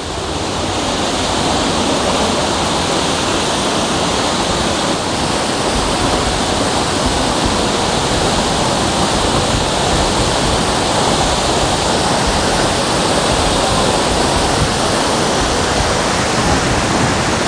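Huruma waterfall: a steady, loud rush of falling water, growing louder over the first second or two and then holding even.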